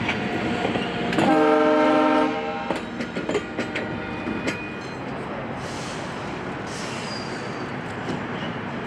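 Passing commuter train with wheels clicking over the rail joints; about a second in, its horn sounds one chord of several notes lasting about a second, then the running noise settles to a steady hiss.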